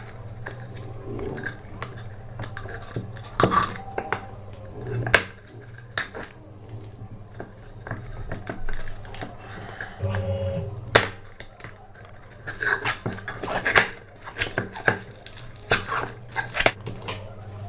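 Handling clatter on a workbench: irregular clicks, knocks and light clattering as parts and a cable are moved around, over a steady low hum.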